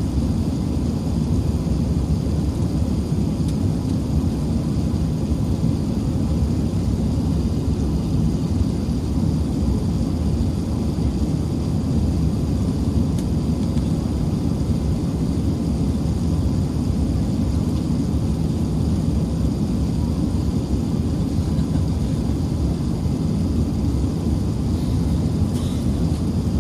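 Steady low rumble of an Airbus A380-861 in flight, heard inside the passenger cabin: the noise of its Engine Alliance GP7200 engines and the airflow over the fuselage, holding an even level.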